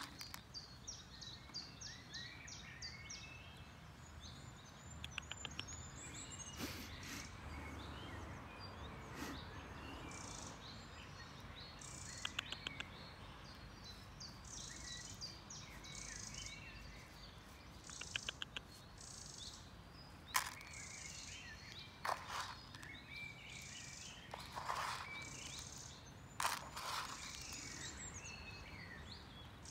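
Small birds chirping and calling again and again over steady outdoor background noise, with a few short, fast ticking trills. A handful of sharp clicks stand out in the second half.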